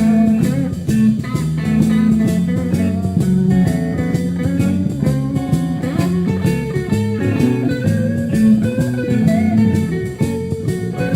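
Instrumental break of a blues-rock song: electric guitar playing over bass guitar and drum kit, with no singing.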